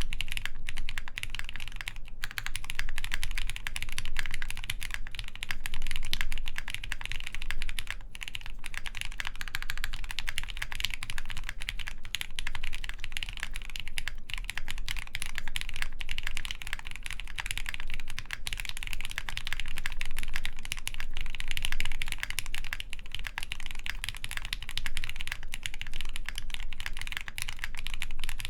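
Continuous fast typing on a Pixelspace Capsule mechanical keyboard with Gateron Hippo switches lubed with Krytox 205g0, a full polycarbonate plate and GMK keycaps: a dense stream of key clicks with a few very brief pauses.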